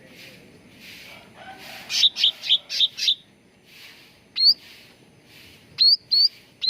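Cucak ranting singing: soft, hazy chattering notes repeating, then a quick run of about five loud sharp chirps around two seconds in, followed by clear whistled notes that flick up in pitch, one in the middle and three in quick succession near the end.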